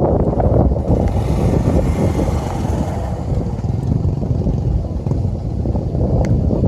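Small motorcycle riding along a dirt track, its engine running under a heavy, uneven rumble of wind buffeting the microphone, with a brief rise of hiss about a second in.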